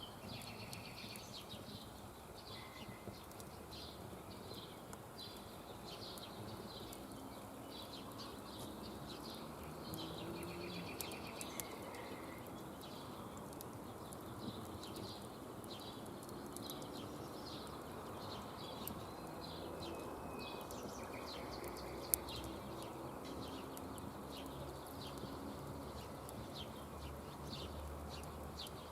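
Songbirds chirping and trilling over and over, over a steady outdoor background noise, with scattered sharp clicks throughout.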